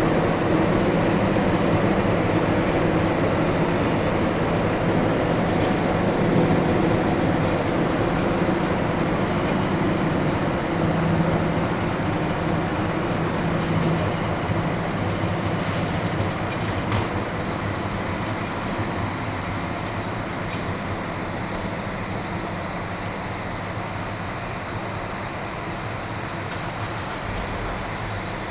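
A train running and moving away, its rumble fading gradually, with a low steady hum in the first half.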